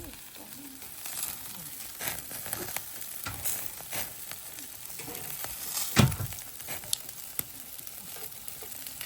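Steady sizzling and crackling from a backyard wood-fire barbecue grill, with scattered sharp clicks and one louder knock about six seconds in.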